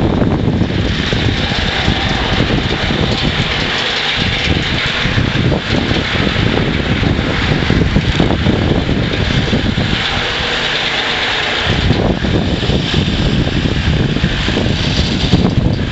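Ingersoll garden tractor's engine running while snowblowing: a steady engine drone with a broad hiss over it. The low rumble eases briefly about four seconds in and again from about ten to twelve seconds.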